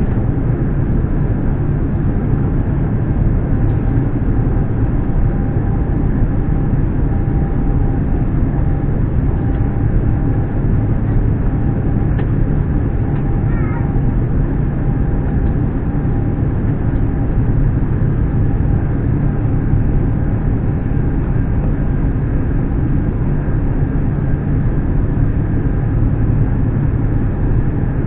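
Steady cabin noise of an Airbus A350 airliner in flight: a deep, even rumble of engine and airflow noise with a faint steady whine over it.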